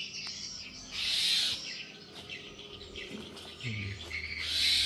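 An unseen bird's harsh, hissing calls, each about half a second long: one at the start, one about a second in and one near the end.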